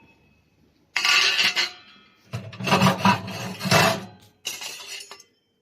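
Sheet-metal chimney pipe segments scraping and rubbing against each other as they are handled, in three rasping stretches with a faint metallic ring.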